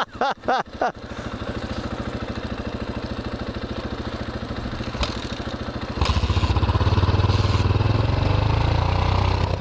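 Dirt bike engines, mainly the KTM 500 EXC-F's single-cylinder four-stroke, running at low speed with an even beat. It cuts out briefly a few times in the first second and gets louder from about six seconds in as the throttle opens.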